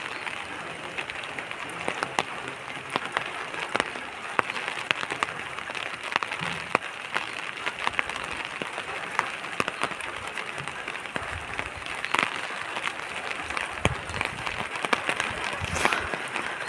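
Heavy rain falling and spattering on hard surfaces: a steady hiss dense with sharp individual drop impacts.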